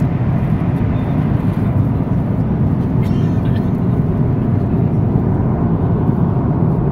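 Steady roar of jet engine and cabin noise inside a Boeing 737 airliner, low and even throughout.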